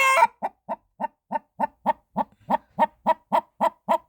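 A hen clucking loudly: one sharp squawk at the start, then a steady run of short, even clucks, about four a second.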